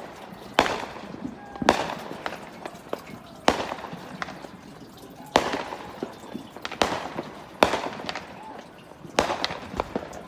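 Fireworks going off across the neighbourhood: about eight sharp bangs at irregular intervals of one to two seconds, each followed by a short crackling tail.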